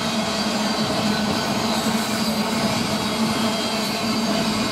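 Freight train of railroad tank cars rolling past at steady speed, a continuous noise of steel wheels on rail with a low steady hum.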